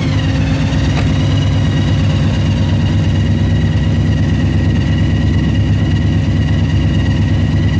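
Supercharged Chevrolet engine in a BMW idling steadily, with a constant high supercharger whine over the engine's idle.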